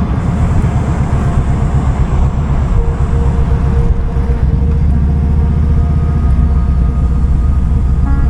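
Kawasaki Vulcan 2000's big V-twin engine running with a steady, pulsing low note while the motorcycle is ridden.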